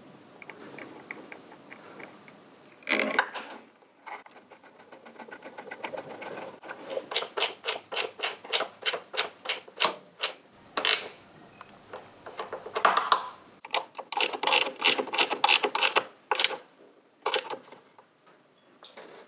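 Ratchet wrench clicking in quick runs of strokes, about four clicks a second, as exhaust clamp and mount bolts are tightened. A few louder metal knocks come between the runs.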